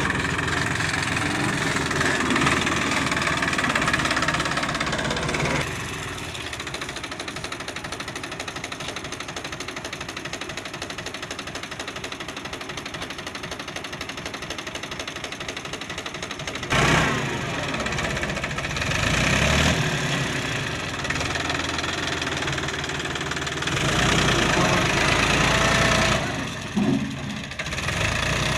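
Powertrac 439 tractor's three-cylinder diesel engine running, settling to a quieter, even idle for about ten seconds, then revved up several times.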